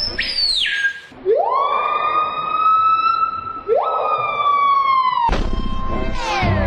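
A bird screeching in long, drawn-out calls: the first falls in pitch, then two each rise sharply and hold like a siren wail. Music with a repeating pattern takes over about five seconds in.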